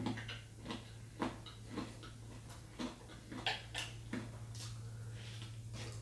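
Close-miked eating sounds of a person chewing pork neck bone meat off the bone by hand: irregular soft clicks and lip smacks, about one or two a second, over a steady low hum.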